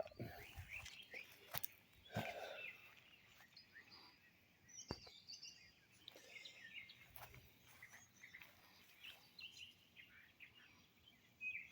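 Faint outdoor bird chirping, short scattered calls throughout, with a couple of sharp clicks.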